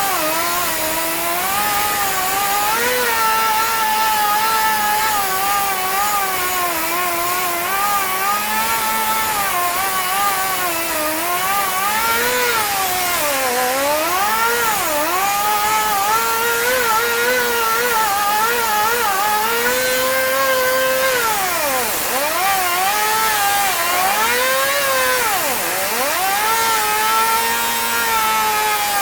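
Electric drill running under load as it drills out brass threaded inserts from kayak seat mounts. The motor whine rises and sags in pitch as the bit bites, with two deep dips near the end.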